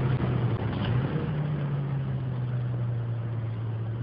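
Car engine running with a steady low hum that shifts slightly in pitch about a second in, over an even background hiss.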